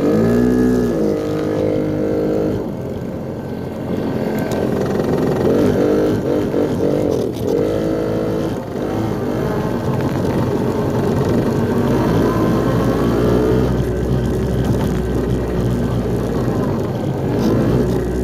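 Small Yamaha dirt bike engine running and being revved, its pitch climbing and dropping several times as the bike is ridden, with steadier running in between.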